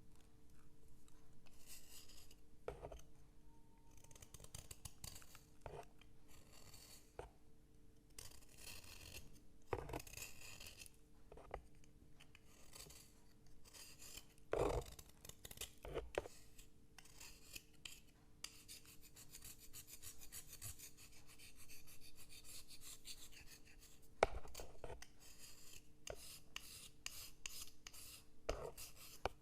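Faint, repeated scratching and rubbing strokes on a writing slate, with a few sharp taps in between.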